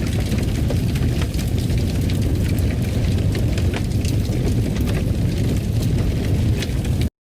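Wood fire crackling in a fireplace: a steady low rumble of burning with frequent sharp pops and crackles. It cuts off suddenly near the end.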